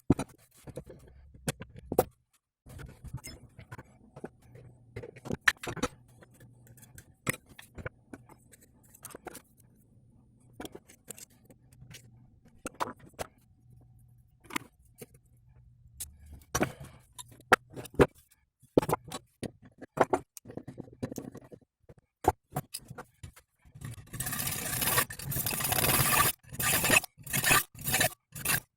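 Hand tools clinking and knocking on the steel parts of a driveshaft universal joint, scattered single clicks and taps, then about 24 s in a few seconds of rough scraping on metal that breaks into separate back-and-forth strokes near the end.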